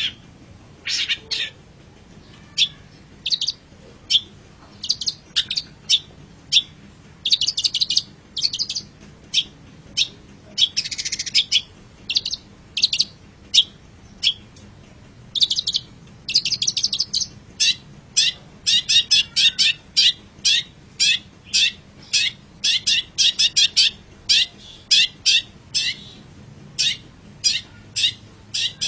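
Long-tailed shrike (cendet) singing: short, sharp chattering notes, scattered at first, then coming in quick runs through the second half.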